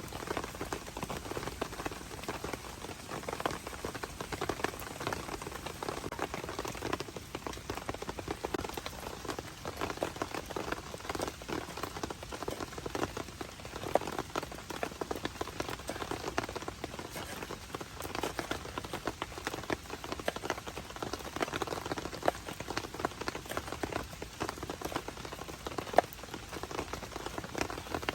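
Heavy rain pattering steadily on a tent shelter: a dense, even patter of drops, with a few louder single drops standing out now and then.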